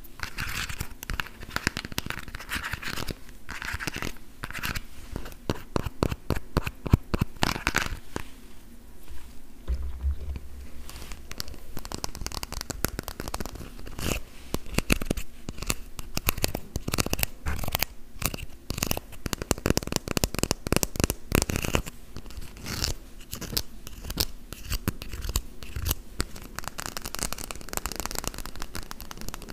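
Fingers tapping on plastic toy food: a dense, rapid run of small clicking taps with short pauses.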